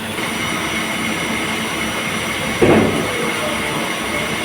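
CNC lathe running with a steady machine noise and a constant high whine. A brief louder sound comes about two and a half seconds in.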